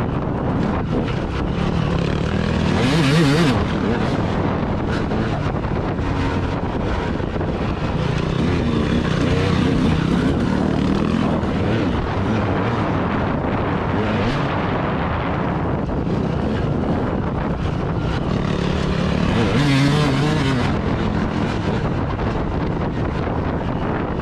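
Wind buffeting the microphone over a steadily running engine, swelling briefly about three seconds in and again later on.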